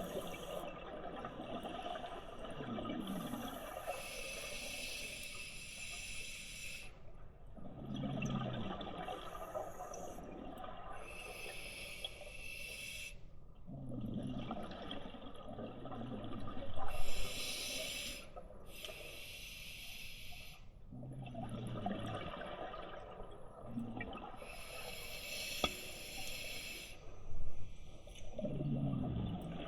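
Scuba diver breathing underwater through a regulator: a hissing inhale of about two seconds, then the bubbling gurgle of the exhale, repeating about every six to seven seconds, four or five breaths in all.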